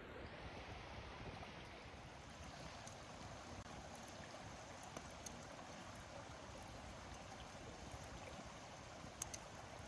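River water flowing steadily, a soft even rush, with a couple of faint clicks near the end.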